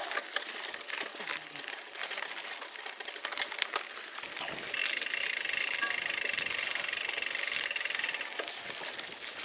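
Mountain bike on a trail: scattered clicks and rattles, then about halfway through a fast, steady run of ticks for some three and a half seconds, the freewheel hub clicking as the bike coasts.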